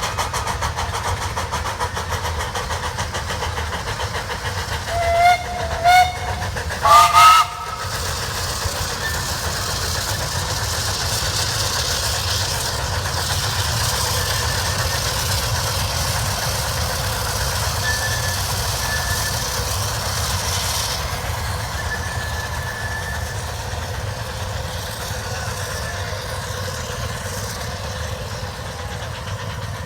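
Several steam locomotives working hard up a steep 4.25% grade, with steady exhaust and running noise. About five seconds in, a whistle gives two short toots, then two longer blasts a second or so later. Through the middle there is a hiss of steam.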